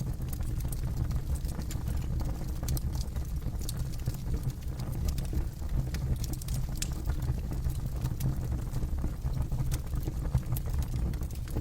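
Campfire burning: a steady low rumble of the flames with frequent small crackles and pops of burning wood scattered throughout.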